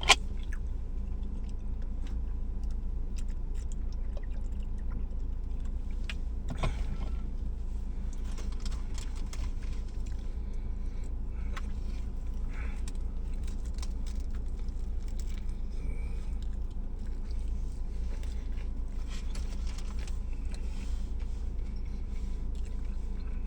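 A person chewing a mouthful of sub sandwich, with scattered faint mouth and wrapper clicks, over a steady low hum.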